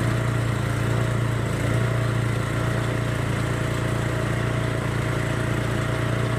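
Masport 6 HP chipper shredder's Briggs & Stratton engine running steadily just after starting, a steady even engine hum that is nice and quiet for such a machine.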